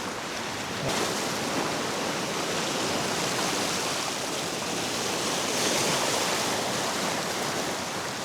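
Sea waves washing against the rocks of a jetty: a steady rush of water that swells about a second in and again around six seconds.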